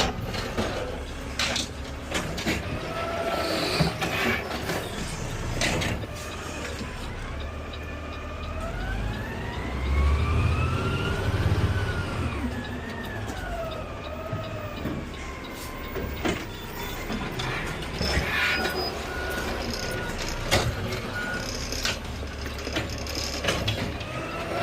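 Peterbilt 520 garbage truck running, with a whine that rises and falls in pitch for several seconds in the middle as the engine's rumble swells, and several sharp knocks and clunks.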